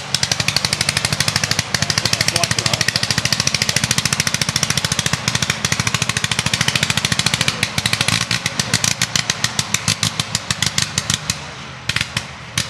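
Sopwith Camel's nine-cylinder Monosoupape rotary engine running unmuffled, a rapid, even stream of sharp exhaust pops. About two-thirds of the way through, the firing thins to spaced, irregular pops with a short break near the end. This is the ignition being cut in and out to control the speed, since this engine has no throttle.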